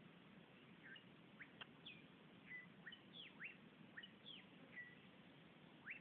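Wild birds calling faintly: a string of short, thin chirps from about a second in, two or three a second, some sliding down and some sliding up, over a steady low hiss.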